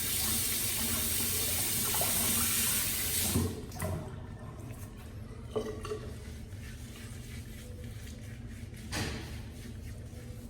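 Sink tap running steadily into a basin, shut off about three and a half seconds in, followed by a few light knocks and clicks.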